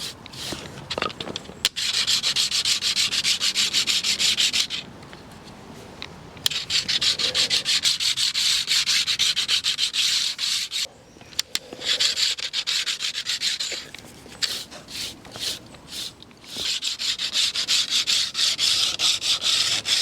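A brush scrubbing a garden railway's track bed in several spells of rapid back-and-forth strokes, with short pauses between them.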